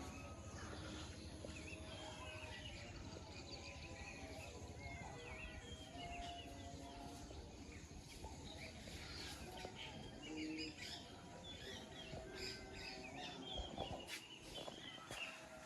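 Several wild birds chirping and calling over a steady low background rumble, with many short, quick chirps and trills throughout.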